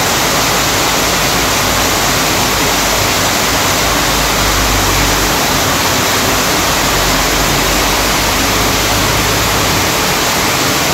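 Heavy rain falling hard on trees and ground: a loud, steady hiss of the downpour.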